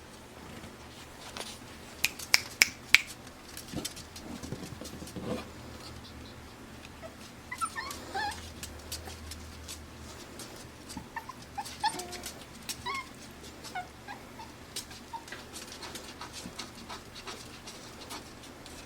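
Five-week-old Pembroke Welsh Corgi puppies whimpering and yipping in short, high squeaks in two clusters. Several sharp clicks or taps come about two to three seconds in and are the loudest sounds.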